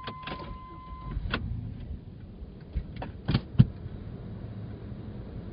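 Low steady rumble inside an idling Blazer's cabin, with a few sharp, irregular clicks and knocks from inside the cabin. A steady electronic beep stops about a second in.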